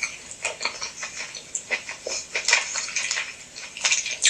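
Close-miked ASMR eating of crab legs: wet lip smacking and chewing, heard as a quick irregular run of short clicks and squelches.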